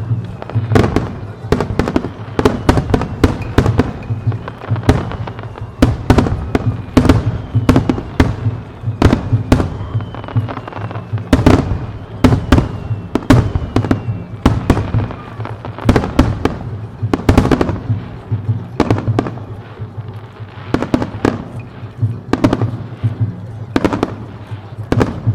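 Starmine fireworks barrage: shells bursting in rapid succession, several sharp bangs a second without let-up, with crackling between them.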